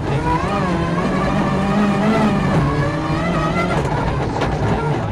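Ford Focus RS WRC rally car's turbocharged four-cylinder engine under way, heard from inside the cockpit, its note rising and falling with the throttle. The car is stuck in sixth gear by a gearbox fault.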